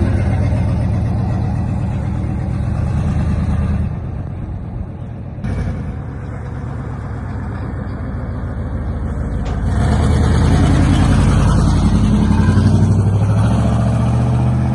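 Pickup truck engine and exhaust running with a low rumble that swells louder about two-thirds of the way through. The sound changes abruptly twice, a few seconds in.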